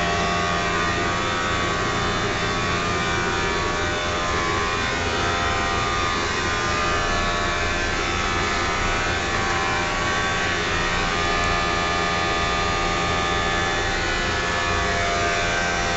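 Triangle blower motor running steadily: a constant whirring hum with several fixed whining tones over it.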